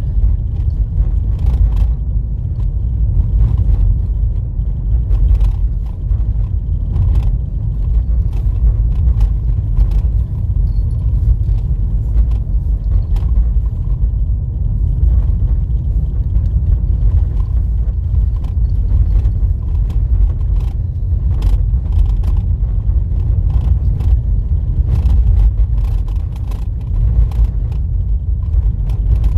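Car driving on a dirt road: a steady low rumble of tyres and engine, with frequent small knocks and rattles.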